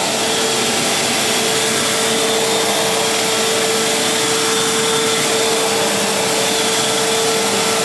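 Fantom Crosswind 200XL bagless cyclonic upright vacuum cleaner running steadily: a loud, even rush of air with a steady motor whine, described as nice and quiet.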